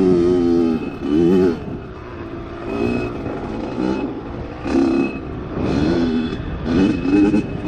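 Dirt bike engine revving up and down repeatedly while riding, its pitch rising and falling several times as the throttle opens and closes.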